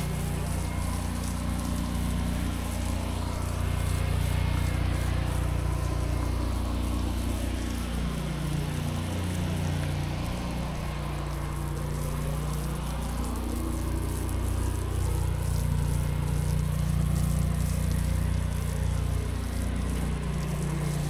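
Gas engine of a pressure washer running steadily, with the hiss of water and chemical spraying from the wand onto concrete.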